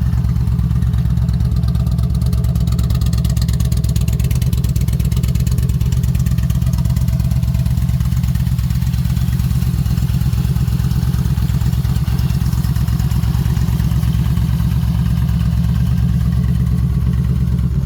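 2009 Yamaha XVS950 Midnight Star's air-cooled V-twin idling steadily through an aftermarket Vance & Hines exhaust, a deep even exhaust note that holds level throughout.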